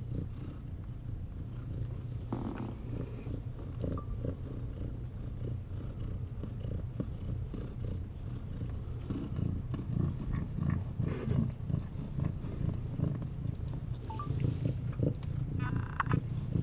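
Domestic cat purring steadily in a low, continuous rumble.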